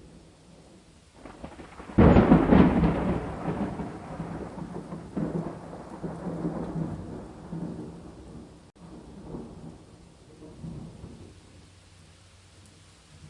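Thunder over steady rain: a clap breaks about two seconds in, then rolls on in several swells that die away over the next ten seconds.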